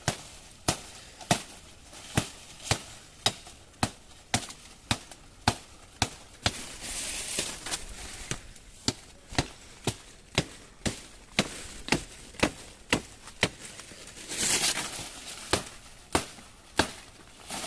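Wood being chopped with a hand-held blade: steady, hard strikes, about two a second. Two longer noisy bursts come around seven seconds and around fourteen seconds in.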